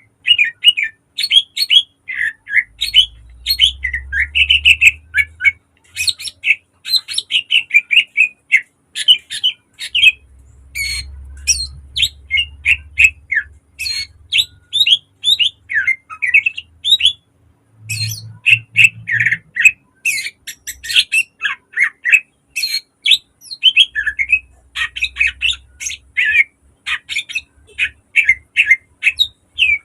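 Cucak ijo (green leafbird) singing an almost unbroken run of quick, sharp chirps, trills and whistled notes. A faint low rumble lies underneath at times.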